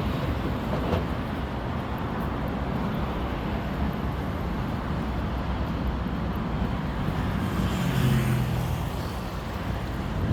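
Street traffic noise: a steady hum and rumble of passing vehicles, with one vehicle swelling louder about eight seconds in.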